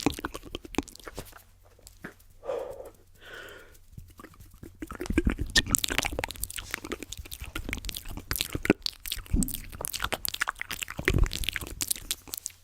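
Close-miked ASMR mouth sounds layered with tapping: quick clicks and wet smacks in dense, rapid runs. They are sparser for a couple of seconds near the start, where a few soft breathy mouth noises sound.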